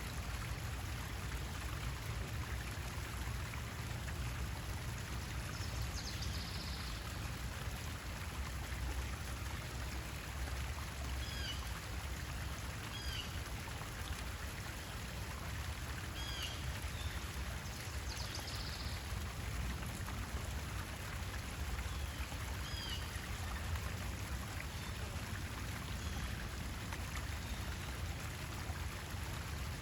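Steady running water, like a small stream or pond outflow, with a few short, high bird chirps now and then.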